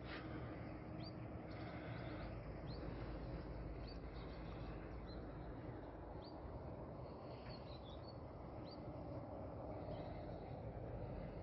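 Small birds chirping faintly, short high rising calls every second or so, over steady low outdoor background noise.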